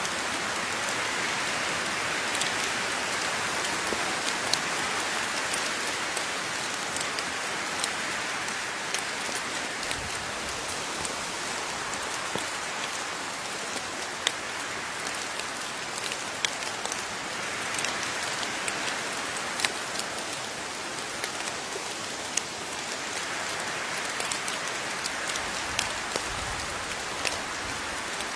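Steady rain falling, with a constant hiss and scattered sharp drips of individual drops landing close by.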